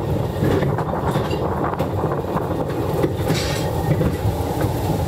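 Narrow-gauge railway carriage running on the Talyllyn Railway, heard from inside: a steady rumble of wheels on the rails with scattered clicks and rattles.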